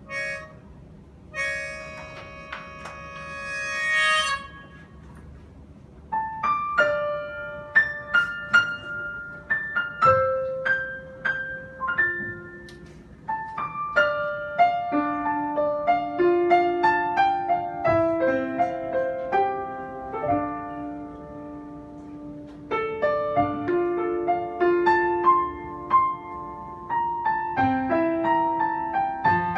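Live instrumental music: a reed instrument holds chords for the first few seconds, then solo piano takes over from about six seconds in, playing a melody over chords.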